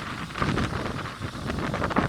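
Wind rumbling against the microphone in uneven gusts.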